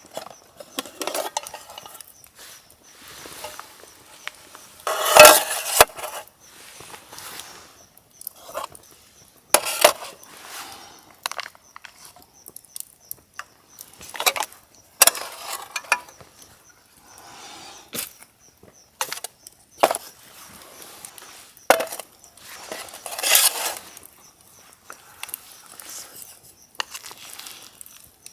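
Camp gear and cookware being handled: irregular clinks, knocks and rustles, with the loudest knock about five seconds in.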